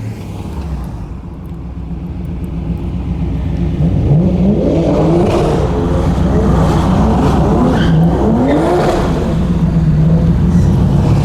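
Sports car engine accelerating hard, pulling up in pitch several times and dropping back between pulls as it goes up the gears, after a few seconds of quieter running.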